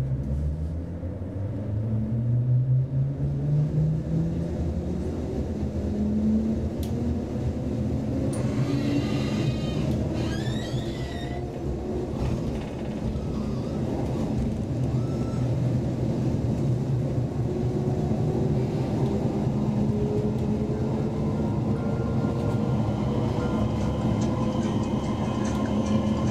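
Inside an X10p electric commuter train pulling away from a station: the traction motors whine, rising steadily in pitch as it gathers speed, over the rumble of wheels on the track. A brief higher squeal comes about nine seconds in.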